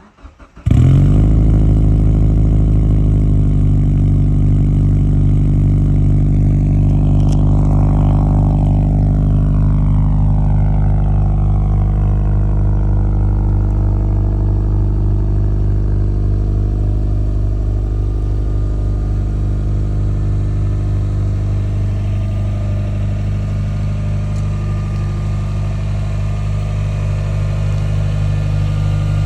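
Subaru EJ257 turbocharged flat-four engine in a Forester with a 4EAT automatic, cold-started: a brief crank that catches in under a second, then a steady cold idle.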